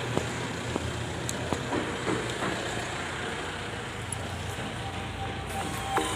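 Steady road-vehicle and traffic noise, with a few scattered clicks and knocks.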